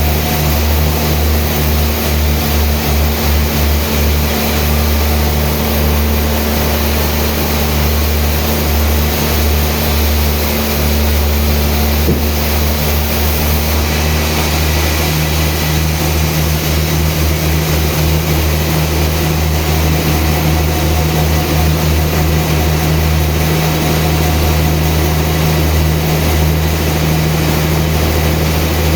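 Sawmill machinery running steadily: a loud, even engine-like drone with a low hum and no break.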